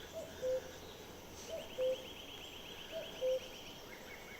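A bird repeating a two-note call three times, a short higher note followed by a slightly lower one, over a rapid high trilling of insects in a spring meadow.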